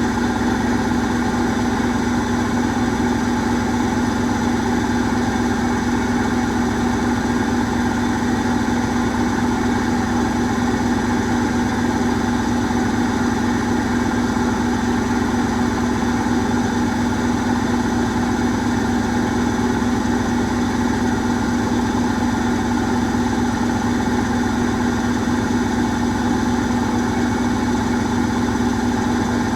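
Asko Quattro W6098X washing machine in its final spin, limited to 1600 rpm, running at a steady speed with a steady high hum from the spinning drum and motor.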